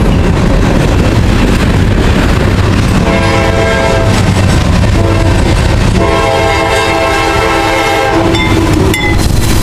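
Diesel freight locomotive horn sounding long blasts, starting about three seconds in and again about six seconds in, over the steady rumble of locomotives and passing freight cars.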